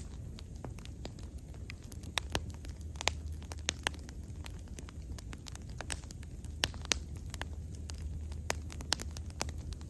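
Bonfire burning: wood crackling and popping with irregular sharp snaps, over a steady low rumble of the flames.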